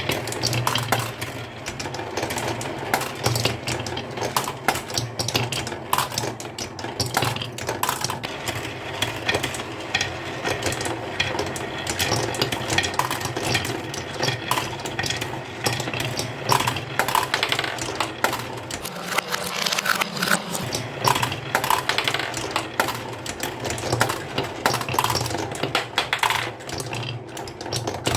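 Marbles rolling and clattering down a wooden marble run, a dense, continuous stream of clicks and knocks with a steady low hum underneath.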